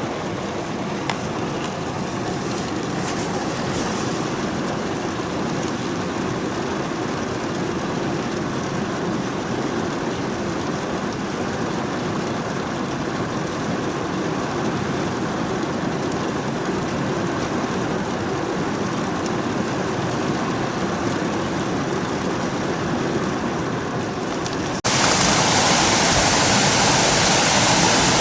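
Steady rushing noise that cuts off abruptly about 25 seconds in, giving way to a louder, brighter rush of water.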